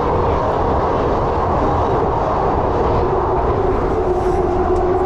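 London Underground Victoria line train running through the tunnel, heard from inside the carriage: a loud, steady rumble with a whine that drops slightly in pitch about three seconds in.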